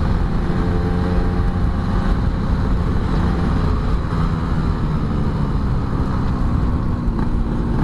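Yamaha RX-King two-stroke single-cylinder motorcycle engine running at a steady pace while being ridden, with road and wind noise.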